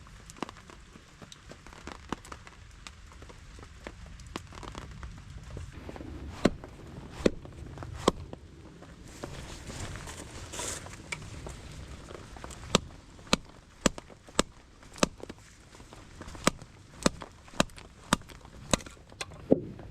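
Firewood being split by hand: sharp knocking strikes, first a few spaced blows, then a steadier run of about two a second.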